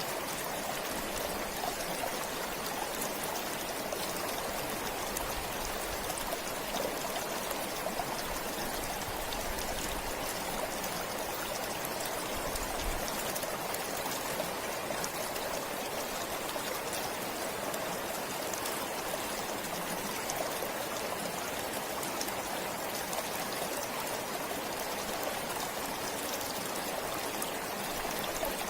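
Forest stream flowing steadily, an even rush of water with a fine trickling and splashing texture.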